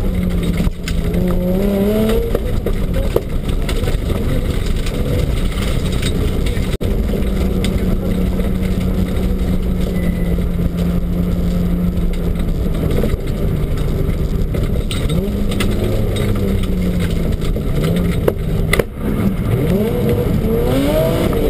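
BMW rally car's engine heard from inside the cabin, pulling hard and revving up and down between gears, with road and tyre noise underneath. The pitch rises about a second in and again near the end, and holds steady for several seconds in the middle.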